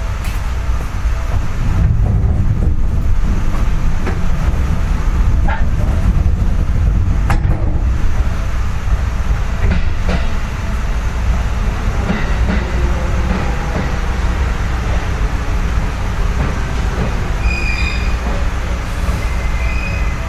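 Seibu 4000 series electric train heard from inside the car: a steady low rumble and hum with a few sharp clicks, and brief high-pitched tones near the end.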